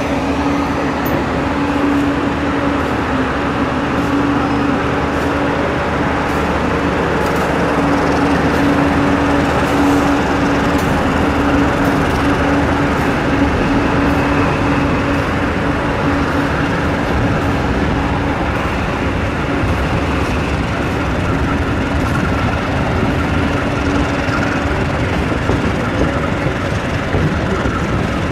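Passenger train running at speed, heard from inside the carriage: a steady, loud rush and rumble of wheels on rail. Under it a steady hum is strong for roughly the first two-thirds and then fades.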